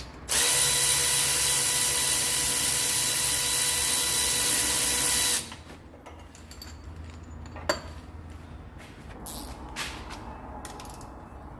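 A power tool runs steadily for about five seconds, then stops abruptly. A few light metallic clicks and knocks follow.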